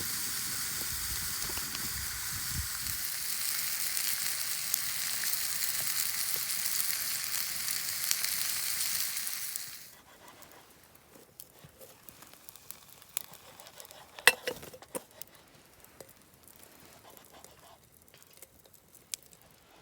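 Beef sizzling as it cooks over a fire, a steady loud hiss that stops abruptly about halfway through. Afterwards it is quiet, with scattered light clicks and one sharper click.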